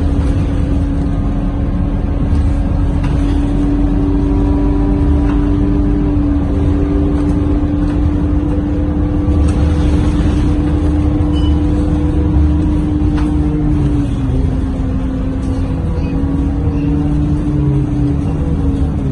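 Scania K230UB bus's diesel engine and drivetrain heard from inside the cabin while on the move: a steady drone with a clear whining tone that drops slightly about fourteen seconds in.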